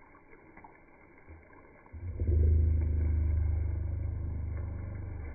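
Chicken stock poured into a hot pot of browned chicken and onions, setting off a sudden low rumbling boil about two seconds in that slowly dies down as the liquid heats.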